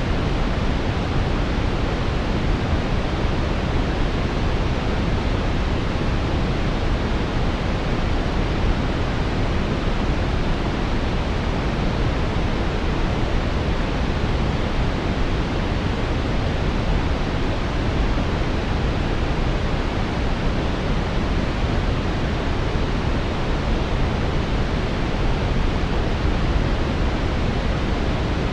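Steady brown noise: an even, deep rushing hiss, strongest in the low end and rolling off in the highs, unchanging throughout.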